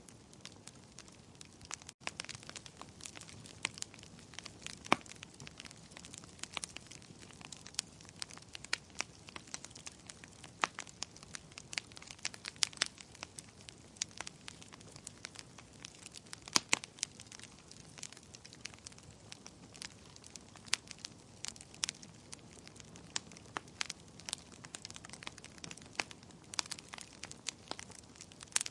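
Wood bonfire crackling, with irregular sharp pops and snaps over a soft steady hiss of the flames.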